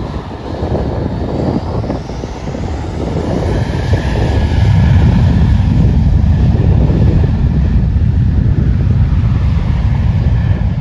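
Jet engine noise of a departing Boeing 737-700 (CFM56-7B turbofans): a low rumble that grows louder about four seconds in and then holds steady, with a faint high whine above it.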